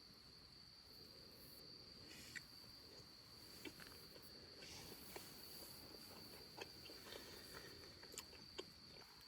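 Near silence: a faint steady high-pitched insect trill, with a few soft scattered clicks.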